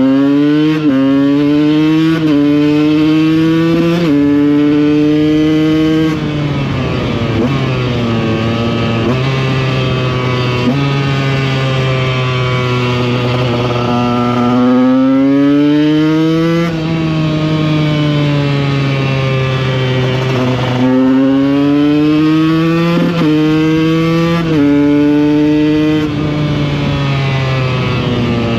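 A two-stroke supermoto engine heard from the rider's seat, accelerating hard through the gears. The pitch climbs in each gear and drops sharply at each upshift, then falls away as the rider eases off. This happens in several runs.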